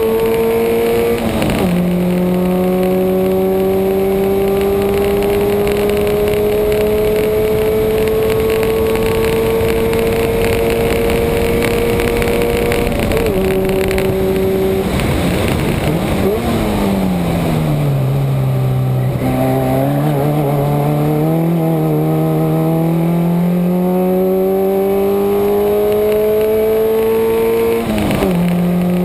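Subaru's boxer engine under track-driving load, its note climbing steadily through the gears with upshifts about a second and a half in, around 13 seconds and near the end. In between, the revs fall and waver as it slows for a corner, then it pulls hard again, with steady road and wind noise underneath.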